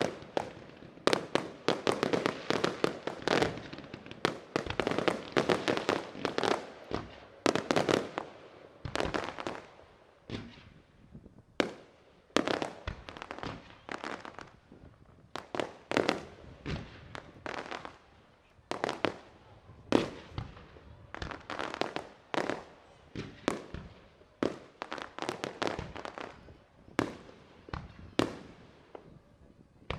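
Fireworks display: aerial shells bursting in a dense rapid volley for the first several seconds, then separate bangs every second or two, each trailing off in an echo.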